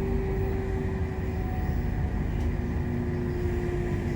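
Interior running noise of a PKP Intercity passenger train heard from inside the carriage: a steady low rumble with a steady electrical hum.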